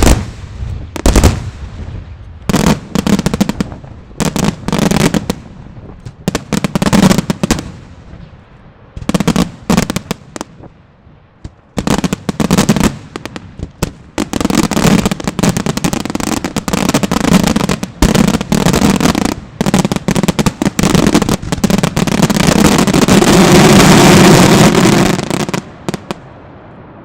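Fireworks going off in rapid strings of bangs: short bursts separated by brief pauses, then a long, dense barrage from about halfway through that stops suddenly near the end.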